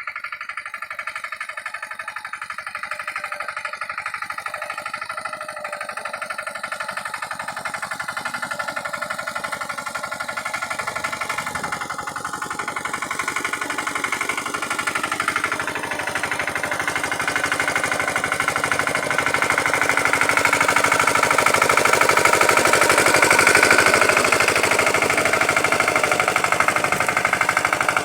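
Pasquali 946 tractor's Lombardini engine running with a fast, even knocking beat, growing louder over the second half.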